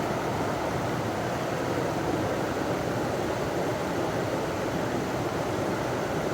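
River water running over a small waterfall: a steady, even rushing with no breaks.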